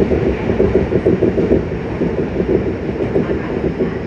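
Yokohama Municipal Subway Blue Line 3000N-series train running, heard from inside the car: a steady, loud rumble of wheels on rail with some clickety-clack.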